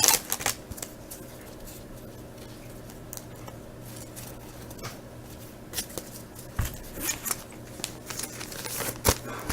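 Faint handling of trading cards: a few scattered light clicks and taps as cards are slid and flipped, over a steady low electrical hum.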